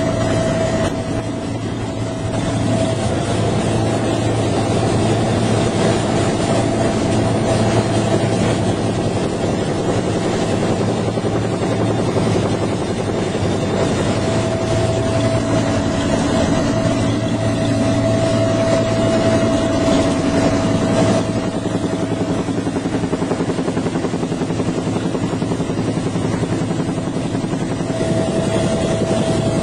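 Helicopter turbine and rotor running steadily, with a steady whine that fades out and back in over the half minute.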